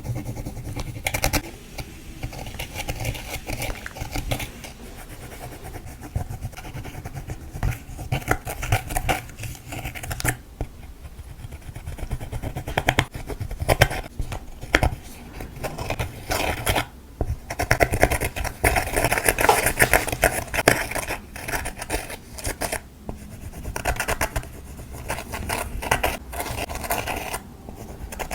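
Hands kneading and stretching clear slime with lipstick mixed in, giving dense sticky crackling and popping that comes in louder stretches.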